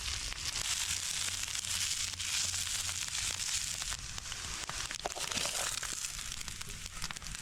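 Corned beef hash frying on a small griddle over a campfire: a steady sizzle with fine crackling pops throughout.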